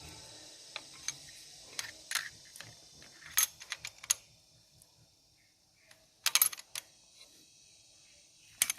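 Irregular metal clicks and clinks of a wrench working the valve-clearance adjusting screw and lock nut on a 4D56 diesel's rocker arm as the nut is tightened, with a quick cluster of sharp clinks about six seconds in.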